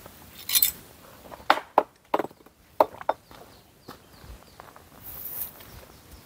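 Dry sticks and leaves snapping and crackling: about seven sharp irregular cracks in the first four seconds, then a softer rustle near the end.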